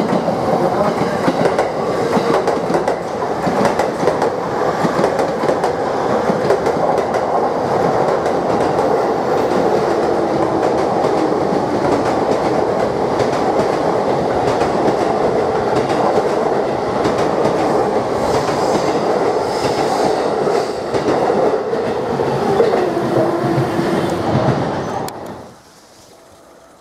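JR East E231-500 series Yamanote Line electric commuter train running close by along a station platform: steady wheel-on-rail noise with fast clicking as the wheels cross rail joints. It cuts off suddenly near the end, leaving only faint outdoor background.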